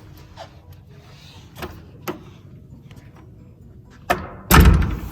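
A few light knocks and footsteps, then a sharp click and a loud heavy thud about four and a half seconds in, as a room door swings shut.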